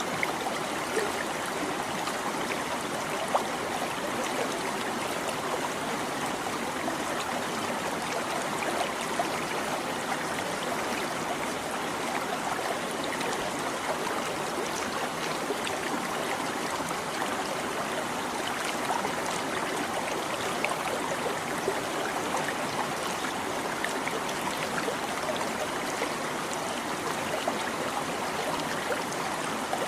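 A small stream babbling and trickling steadily over stones, with constant small splashes and gurgles.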